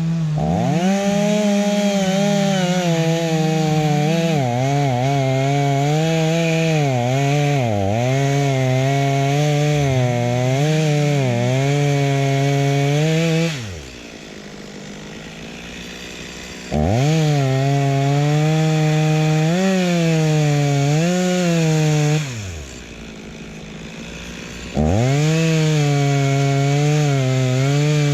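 Two-stroke chainsaw cutting at full throttle, its engine note sagging and recovering again and again as the chain loads up in the wood. Twice the throttle is released to idle for a few seconds before it revs back up into the cut.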